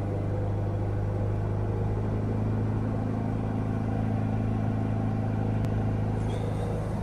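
Ford Focus 1.6 TDCi four-cylinder diesel engine held at a steady 3000 rpm, heard from inside the cabin, its note even and unchanging.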